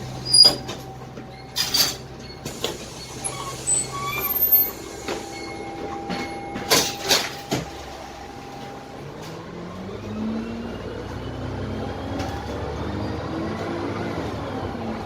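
Inside a Dennis Trident double-decker bus: clattering knocks and rattles over a steady low engine hum, then, about nine seconds in, the Cummins ISMe diesel engine note climbs in pitch with a faint rising whine above it.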